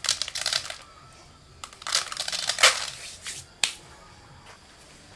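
Rustling and crunching of dry milled rice mixed with unhusked paddy being handled and scooped, in two bursts, with a sharp click about three and a half seconds in.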